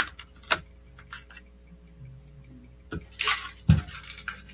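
Small hard clicks and light clatter of laptop RAM modules being handled and set down, two sharp clicks near the start and two more about three seconds in, with a brief rustle near the end.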